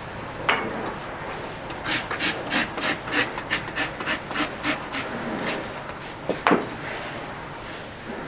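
Farrier's rasp filing a horse's hoof in a run of about a dozen quick, even strokes, roughly three a second. There is a sharp knock before the rasping and another after it.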